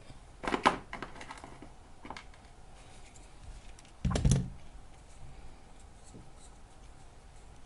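Bench handling noises while working on a battery pack: a short clatter about half a second in and a heavier bump about four seconds in, with faint ticks between.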